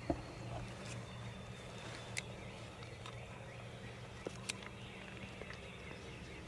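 Faint woodland background with scattered distant bird calls, broken by a few short sharp ticks and rustles close by.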